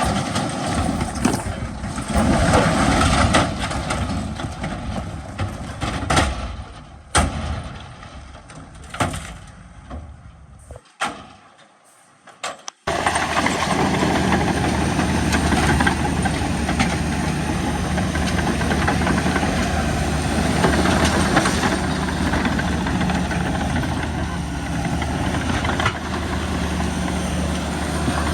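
Heavy diesel engine of earthmoving machinery. For the first twelve seconds there is uneven engine and machine noise with sharp knocks, fading to near silence. About 13 s in the sound cuts abruptly to a steady, loud diesel drone.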